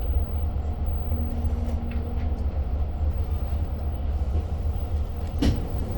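Steady low rumble inside a Long Island Rail Road diesel-hauled passenger coach, with a few faint clicks and one sharp click near the end.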